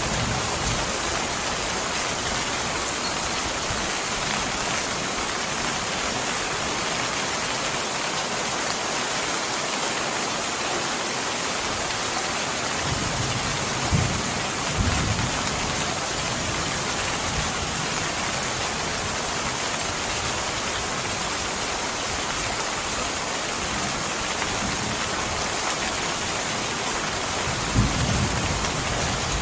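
Steady rain, an even dense hiss, with brief low rumbles of thunder about halfway through and again near the end.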